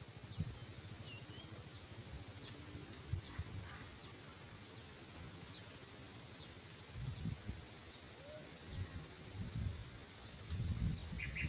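Outdoor natural ambience: a steady high-pitched insect drone, with short falling chirps repeating about once a second and irregular low rumbles underneath.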